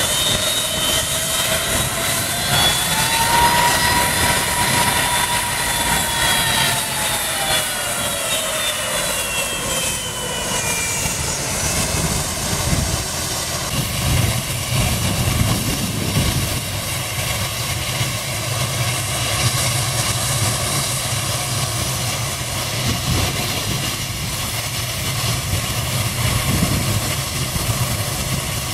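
Jet airliner engines passing close by: a loud engine whine rises and then falls in pitch over the first several seconds, then settles into a steady deep rumble.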